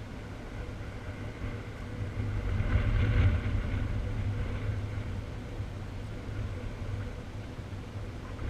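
Gusty wind buffeting the microphone: a low rumble that swells about three seconds in, then eases.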